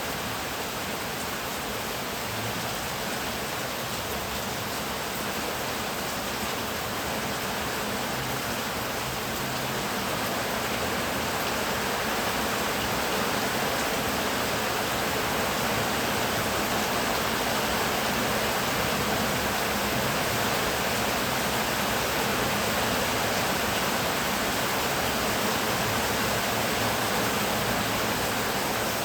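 Heavy rain falling steadily, a dense even hiss that grows slightly louder about a third of the way in.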